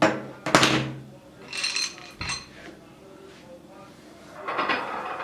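Dishes and cutlery knocking and clinking: two sharp knocks at the start, ringing clinks in the middle, and a clattering handling noise near the end.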